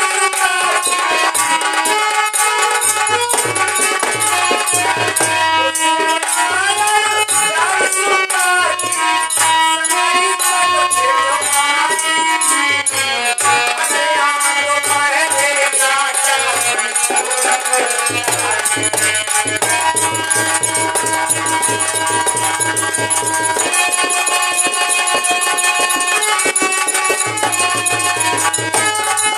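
Instrumental interlude of a Hindi devotional kirtan: a melodic lead instrument plays over a continuous rattle or shaker and a rhythmic low drum beat that drops out for a few stretches.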